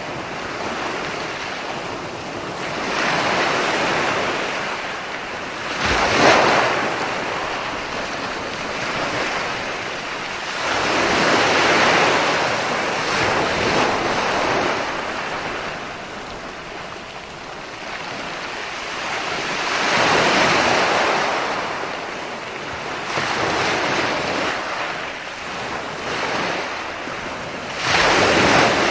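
Ocean waves: a continuous wash of surf that swells and fades every several seconds, with a sharper, louder wave break about six seconds in and another near the end.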